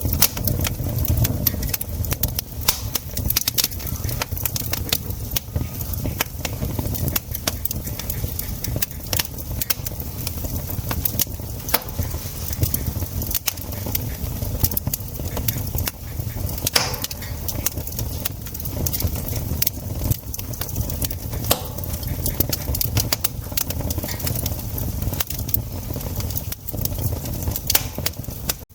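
Wood campfire crackling and popping with dense, irregular sharp snaps over a steady low rumble.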